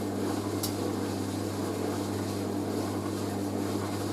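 Hoover A3060 Electronic 1100 washing machine spinning, its motor and drum giving a steady hum at a constant speed, with the sofa throw held against the drum wall by the spin.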